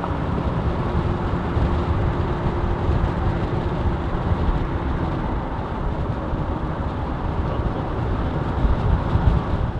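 Vehicle driving along a road: a steady rumble of engine, tyres and wind, with a faint steady hum for much of it, cutting off suddenly at the end.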